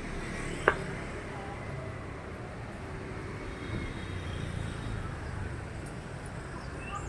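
Street ambience: a steady low rumble of traffic with faint voices in the background, and a single sharp click a little under a second in.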